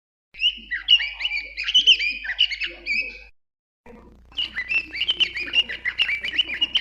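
Songbird chirping in quick runs of short, high, gliding notes, in two spells broken by a sudden silent gap a little after halfway.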